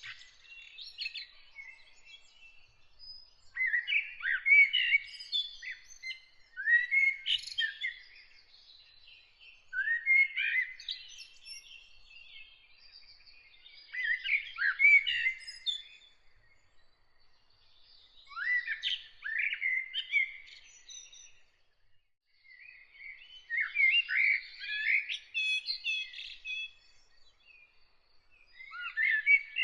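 A songbird singing a run of separate, varied phrases, each a second or two long, with pauses of a couple of seconds between them. A faint, steady high note carries on in the background.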